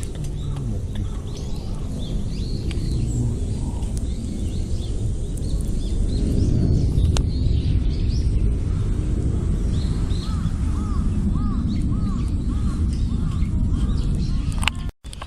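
Outdoor ambience of wild birds calling, with scattered chirps and a run of about eight repeated short calls around two-thirds of the way in, over a steady low rumble. The sound cuts out briefly near the end.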